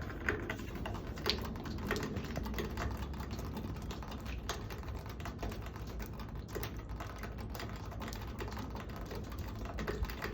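Irregular light clicking and tapping, several a second, over a steady low hum.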